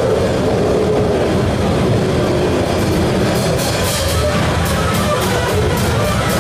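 Noise music: a loud, dense wall of distorted sound with a few held pitches buried in it. About three seconds in, a fast run of sharp clattering hits starts in the upper range.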